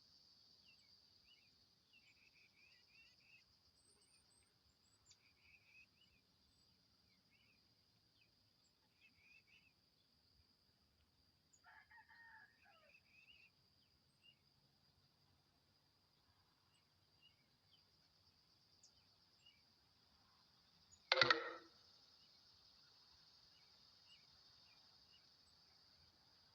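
Faint steady high-pitched insect drone with scattered soft bird chirps. Three-quarters of the way through comes one loud, short bird call, the loudest sound.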